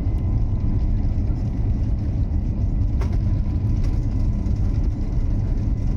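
Steady low rumble of an Airbus A350-900 heard from inside the passenger cabin as it arrives at Doha, with a faint click about three seconds in.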